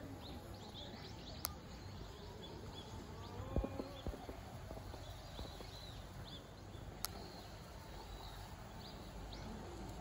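Outdoor ambience: a steady low rumble with scattered faint, high chirps of small birds. A few soft thumps come about three and a half to four seconds in, and two sharp clicks are heard.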